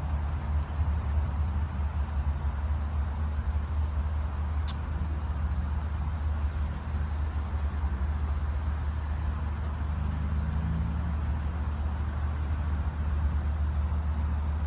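Steady low rumble of road traffic by the level crossing, with one brief high squeak about five seconds in.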